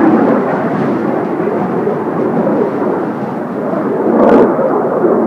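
Roar of Kawasaki T-4 jet trainers' twin turbofan engines as the formation flies over, a dense rumbling noise that dips a little and swells again about four seconds in.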